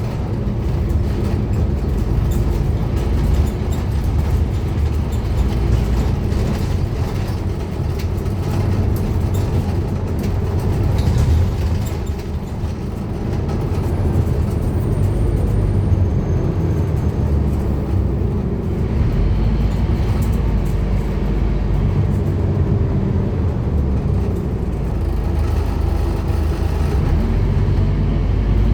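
Scania N230UD Omnicity double-decker bus's five-cylinder diesel engine running under way, with road and body noise. The engine note dips briefly about twelve seconds in, then picks up again as the bus pulls on.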